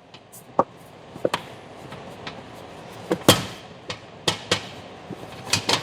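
Plastic cover clips popping loose and the plastic piece knocking as it is pried up along its back edge: a string of sharp clicks and knocks, about ten in all, the loudest a little past three seconds in.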